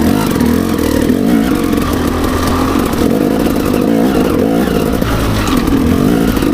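Enduro dirt bike engine running under load on a trail, its revs rising and falling as the throttle is worked.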